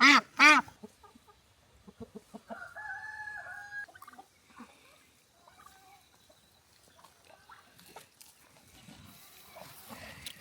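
Farm poultry calling: two loud, short pitched calls right at the start, then a single held call lasting a little over a second about three seconds in, followed by scattered quieter calls.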